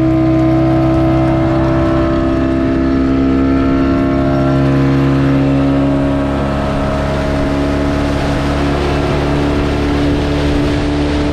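Speedboat engine running steadily at speed, with a rushing hiss of water and wind that grows stronger partway through.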